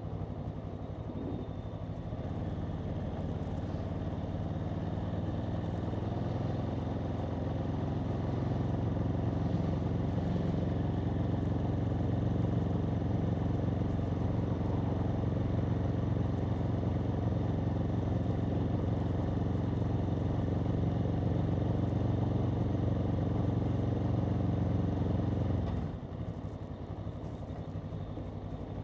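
Aprilia Tuono V4's V4 engine running at steady revs. About 26 seconds in, its note drops and gets quieter.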